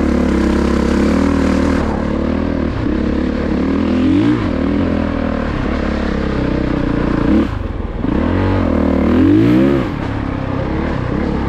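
2022 Honda CRF450RX's 450 cc single-cylinder four-stroke engine pulling the bike along a trail. It revs up and back down about four seconds in, drops off briefly at around seven and a half seconds, then revs in a longer rise and fall near the end.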